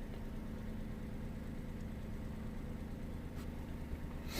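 Volkswagen Up's engine idling steadily, heard with a low hum, and a brief click at the very end.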